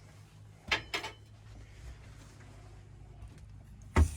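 Two sharp knocks close together about a second in, and another near the end, over a low steady hum.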